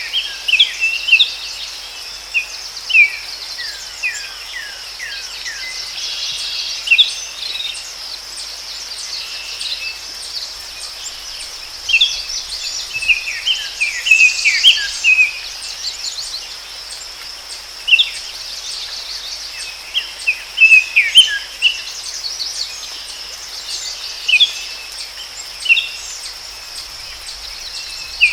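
Forest ambience: songbirds chirping in scattered clusters of short, quick, falling notes over a steady high-pitched insect drone.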